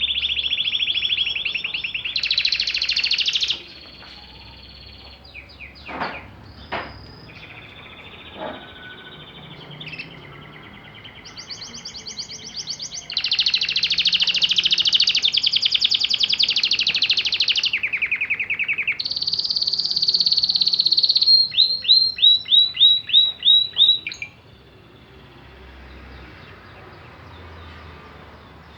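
Domestic canary singing: long, rapid trills and rolls, high-pitched, loud in the opening seconds and again in a long stretch from about 13 to 24 seconds in, with softer, scattered phrases between.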